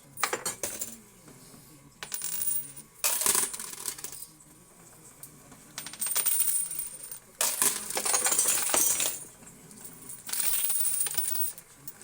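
Coin pusher machine with quarters clattering and clinking as coins are dropped in and pushed along. The clinking comes in five or so bursts a second or two long, with quieter stretches between.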